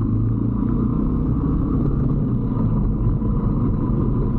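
125cc Brixton motorbike's single-cylinder four-stroke engine running steadily while riding along, a continuous low rumble.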